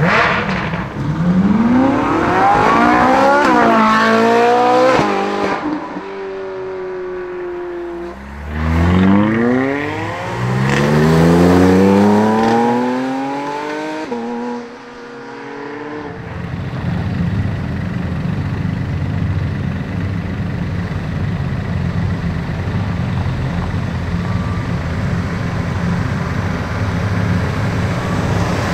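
Sports-car engines accelerating hard, one car after another, in several climbs in pitch, each broken by a drop at an upshift. From about halfway, a steady low engine drone takes over.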